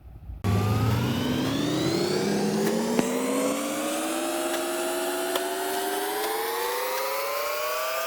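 A motor whining, its pitch rising slowly and steadily; it starts abruptly about half a second in.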